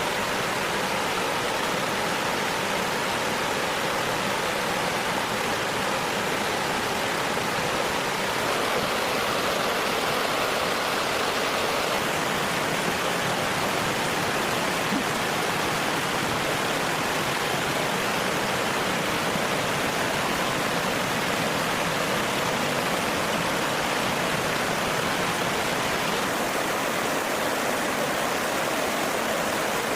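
Steady rushing of flowing water, as from a stream or small waterfall, with no distinct events.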